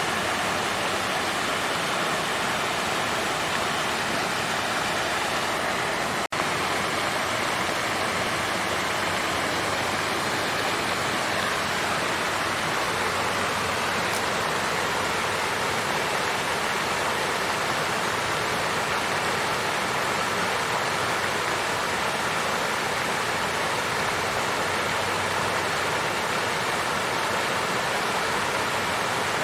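Water fountain flowing: a steady, even rush of falling water, with a momentary break in the sound about six seconds in.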